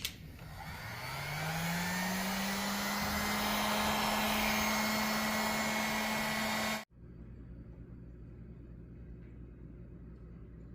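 A small electric blower motor spins up, its hum rising over the first two seconds, then runs steadily with a rush of air. It cuts off abruptly about seven seconds in, leaving only a faint low hum.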